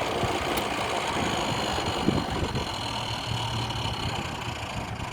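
Jet JDP-15MF drill press running steadily at its high speed setting, a continuous motor hum, with a brief knock about two seconds in.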